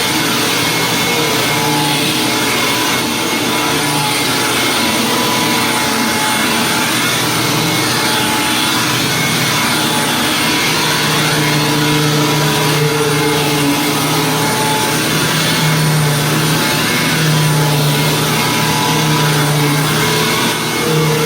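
Hoover WindTunnel Plus upright vacuum cleaner running steadily, a loud motor whine with a low hum that swells and fades as it works.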